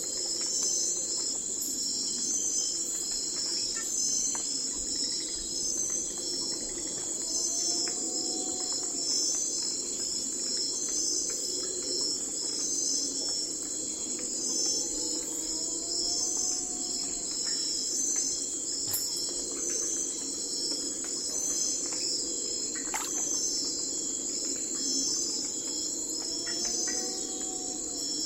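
Night forest ambience: a dense, high-pitched chorus of crickets and other insects trilling without a break over a steady low drone. A short call that rises and falls in pitch repeats about every eight seconds.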